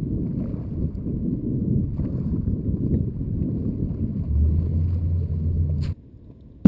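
Sudden rainstorm: wind and rain buffeting the microphone, a loud, steady rumbling noise. It cuts off abruptly about six seconds in.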